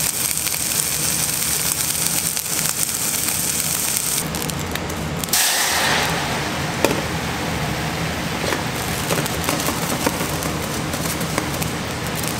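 Turban shell meat sizzling in oil in a frying pan; about five seconds in, white wine is poured into a hot saucepan with a brief rush and then bubbles and crackles steadily as it simmers to cook off the alcohol.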